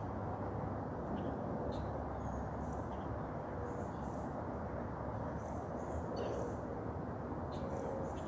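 Morning outdoor ambience: a steady low background rumble with scattered short, faint, high bird chirps.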